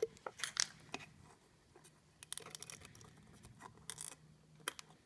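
A plastic bottle of motor oil being handled and cut open with a knife: scattered short clicks and a few brief scrapes.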